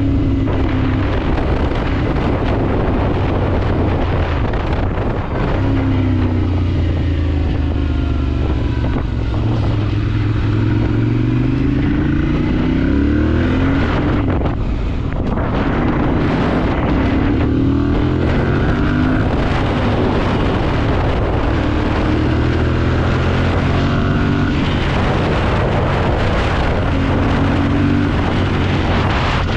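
Ducati Monster 796's air-cooled L-twin engine under way, its pitch climbing through several accelerations and dropping back at each gear change or roll-off, with wind noise on the microphone.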